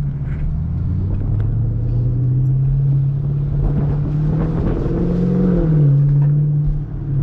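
Exhaust of a 2023 Camaro SS's 6.2-litre V8, running with the muffler and secondary catalytic converters deleted, as the car is driven: a loud, steady rumble that climbs slowly, rises to a peak about five seconds in, then drops to a lower note.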